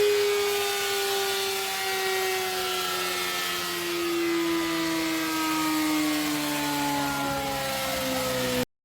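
Motorcycle and chassis dyno roller spinning down after a run: a mechanical whine that falls slowly and evenly in pitch, cutting off suddenly near the end.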